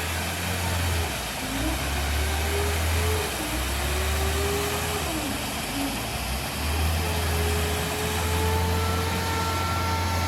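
Heavy machinery running: a loud low drone with a noisy rush over it, and an engine-like note that rises and falls in pitch as the load changes.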